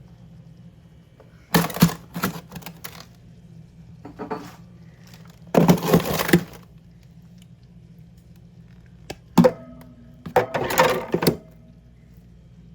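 Objects being handled and knocked together in four short spells of clattering and knocking, over a low steady hum.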